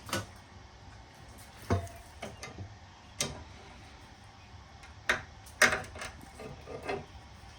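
Irregular metallic clinks and knocks, about six or seven sharp ones spread unevenly, from hand tools and small brass and steel furnace burner parts being handled.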